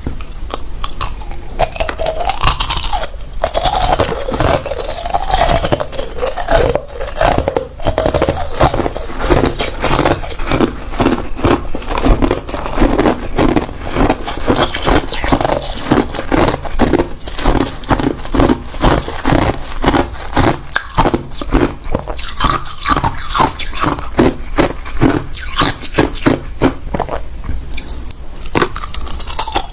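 Hard ice cubes being bitten and chewed close to the microphone: a steady run of rapid, crisp crunches and cracks.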